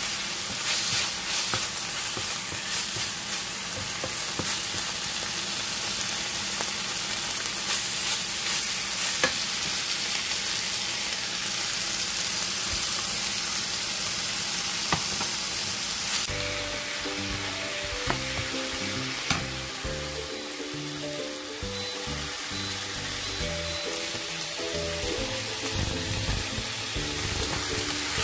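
Pork soft bones and sour bamboo shoots sizzling in a frying pan as they are stir-fried, with a steady hiss and a few sharp ticks of the spatula against the pan. Background music comes in a little past halfway.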